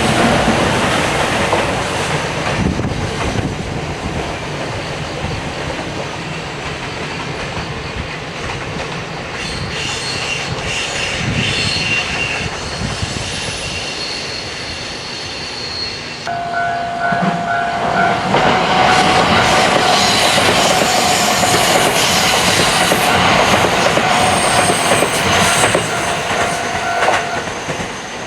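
Train running on rails with a steady rumble and clickety-clack, with faint high-pitched wheel squeal partway through. About sixteen seconds in the sound gets louder and a steady tone joins it, holding for about ten seconds before it stops.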